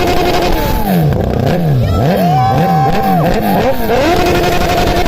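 Superbike engine revved hard through its exhaust: held at a steady high rev, then blipped up and down about twice a second, then held steady again near the end.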